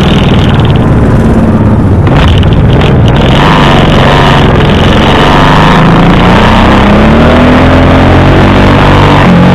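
Honda V-twin motorcycle engine running under way, with wind rushing over the microphone. The engine note rises steadily from about six seconds in as the bike accelerates, then holds.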